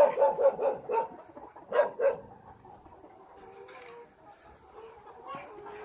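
A dog barking: a quick run of short barks in the first second, then two more barks about two seconds in.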